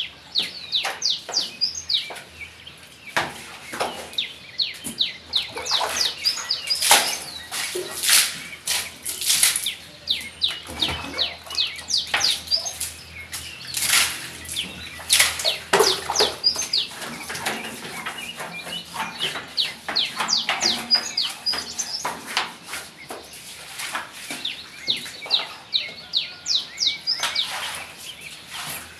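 Many small birds chirping busily: rapid, short, falling chirps that overlap throughout, with a few sharp clicks or knocks among them.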